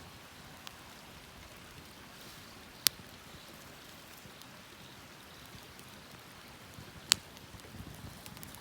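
Campfire crackling, a soft steady hiss with scattered small ticks and two sharp loud pops, about three and seven seconds in.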